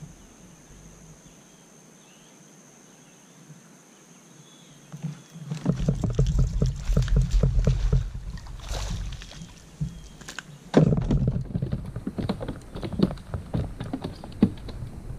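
Knocks, clicks and rubbing as gear is handled on a fishing kayak, starting after a quiet few seconds, with one sharp knock about two-thirds of the way through.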